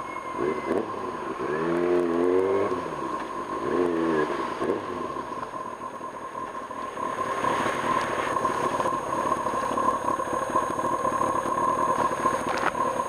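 Kawasaki Ninja ZX-6R's inline-four engine on the move, its pitch rising and falling as the throttle is worked in the first few seconds, then settling into a steadier rush of wind and wet-road noise.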